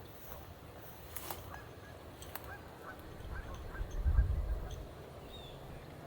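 Geese honking: a string of short calls, with a low rumble about four seconds in.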